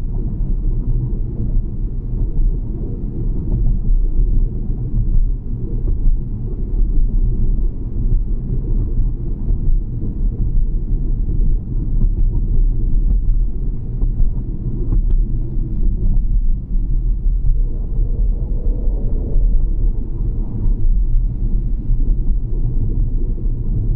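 Steady low rumble of a vehicle travelling along a road: road and wind noise, loud and unbroken.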